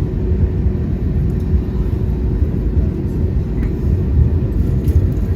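Cabin noise of an Airbus A320neo after landing: a steady low rumble with a faint constant hum, from the engines and the aircraft rolling on the ground while the passengers stay seated.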